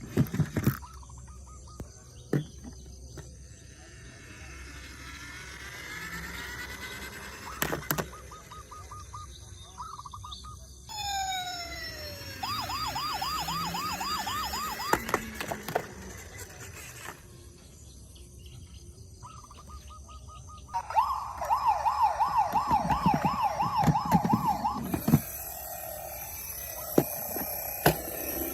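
Emergency-vehicle sirens in several patterns: a slow rising wail, then a fast yelp about halfway through and again later, with a few sharp clicks between.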